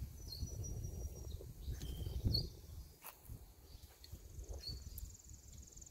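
Outdoor garden ambience: a few short, high bird chirps over a low, uneven rumble.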